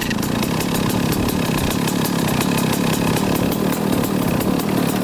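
A 1995 Kawasaki KX250 two-stroke single-cylinder engine idling steadily, with its rapid even firing.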